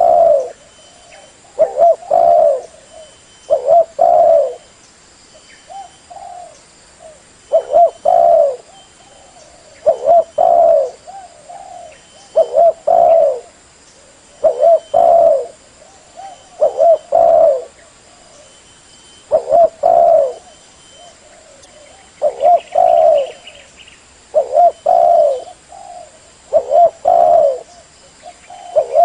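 Female spotted dove cooing: short coo phrases repeated about every two seconds. This is the female call used to excite a caged decoy male dove for trapping.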